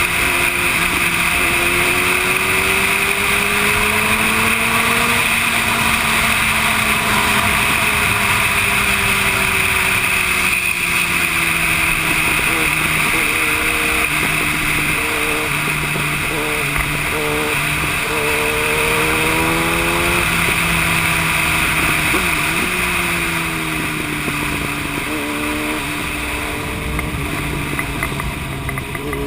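Yamaha YZF-R1 sport bike's inline-four engine running at highway speed, heard from on board, its pitch rising and falling gently with the throttle, under a steady hiss of wind.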